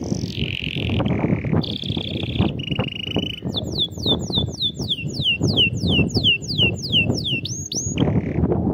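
Domestic canary singing: short steady trilled rolls, then a quick run of falling whistles about three or four a second, closing with two rising notes near the end. A loud low background noise with irregular knocks runs underneath.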